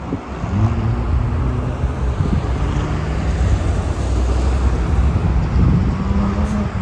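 A motor vehicle's engine passing on the road, its pitch rising and shifting up in steps as it accelerates, over steady traffic noise.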